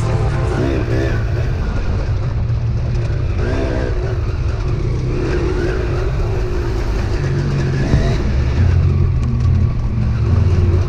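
Dirt bike engine running under load, revving up and falling back several times as the bike is ridden.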